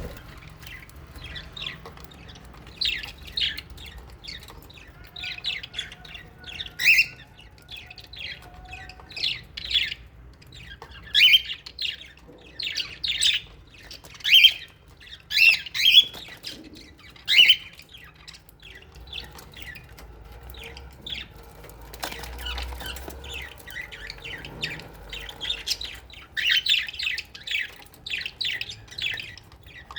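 Flock of small parrots, lovebirds and budgerigars, chirping and squawking in many short sharp calls, busiest through the middle and again near the end.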